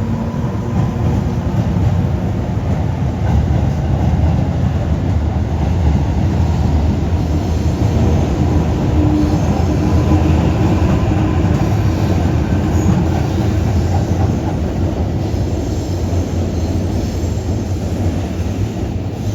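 JR Kyushu 415 series electric multiple unit pulling away from a station: a steady, loud rumble of motors and wheels on the rails, with a faint rhythmic clatter of wheels over rail joints.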